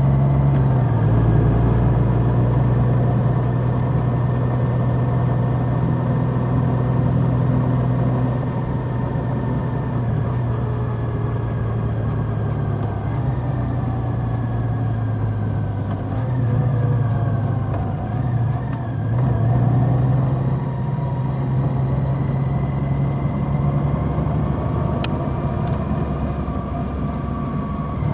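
Large motorcycle engine running under way at a fairly steady speed, its note drifting gently up and down, with one short click about 25 seconds in.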